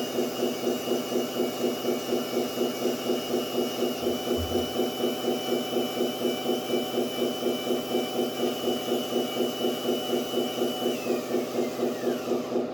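A Servonaut SM3 sound module plays a Scania V8 truck engine idling through the RC truck's small speaker, a steady rhythmic pulsing of about three to four beats a second. A thin high whine holds steady, then drops in pitch near the end.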